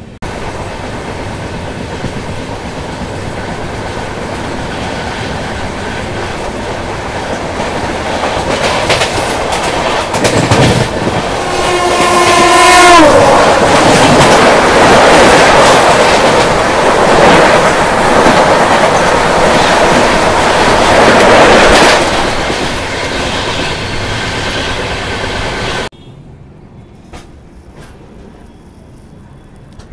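Passenger train running at speed, heard from an open coach door. About eleven seconds in, a passing train's locomotive horn sounds, its pitch falling as it goes by. It is followed by the loud rush of that train's coaches alongside for several seconds. Near the end the noise drops off abruptly to a much quieter background.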